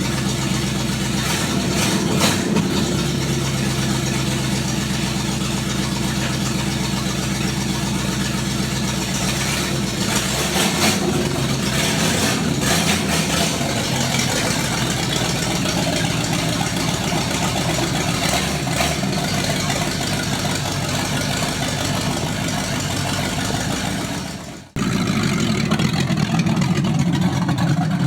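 Carbureted Ford Mustang engine running loud on open headers with no exhaust, a steady idle with a few short louder blips. The sound breaks off for an instant about three-quarters of the way through and picks up again.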